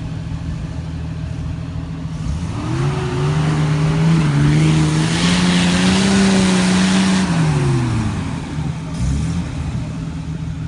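An off-road vehicle's engine revs up from a steady idle about two seconds in, holds at high revs for several seconds under load, then drops back toward idle near the end, with a rush of noise that rises and falls with it.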